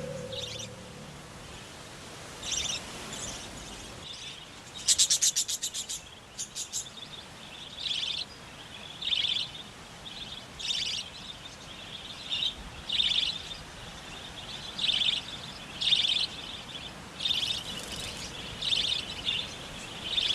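Budgerigars chirping: short high calls repeated about once a second, with a quick rattling run of a dozen rapid notes about five seconds in. These are parent budgies calling to their fledglings to coax them out of the nest hollow.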